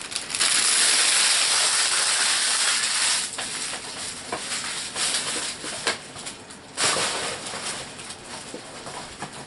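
Crinkling of a HeroClix booster pack's wrapper being torn open and handled, loudest for the first few seconds, then softer rustling with scattered light clicks and another short burst of crinkling about seven seconds in.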